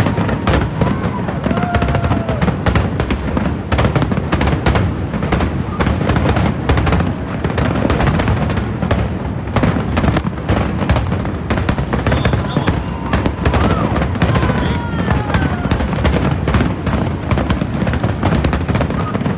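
Harbour fireworks display: many shells bursting in quick succession, a dense, unbroken run of bangs and crackle.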